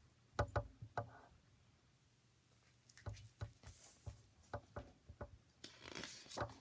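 Faint handling of a picture book: a few soft clicks and knocks, a scattered run of them a few seconds later, and a short paper rustle near the end.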